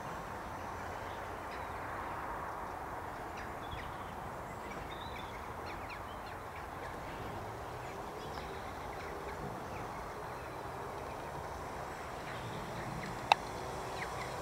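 Steady open-air background hiss with faint bird calls scattered through it, and a single sharp click about thirteen seconds in.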